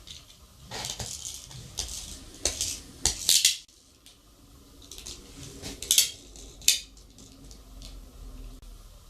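Small metal objects clinking and rattling in a handful of sharp clatters, the loudest about three seconds in and twice more around six to seven seconds.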